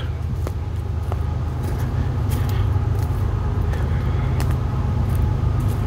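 A train passing on railroad tracks: a steady low rumble with a few faint clicks.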